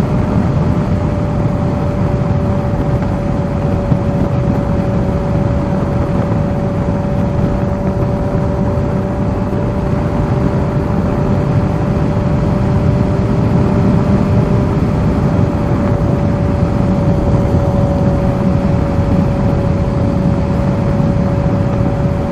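Kawasaki Z H2's supercharged inline-four cruising at a steady speed. Its even engine note sinks very slightly over the stretch, under heavy wind rush on the microphone.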